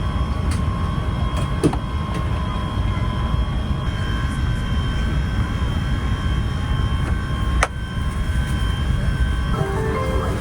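Airbus A380 cabin noise: a steady low rumble with several steady high whines over it. A single sharp click comes about three-quarters of the way through.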